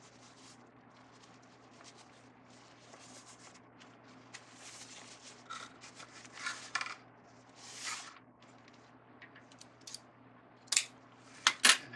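Ribbon rustling and crinkling in bursts as it is handled and looped into a bow, with a few sharp clicks near the end that are the loudest sounds.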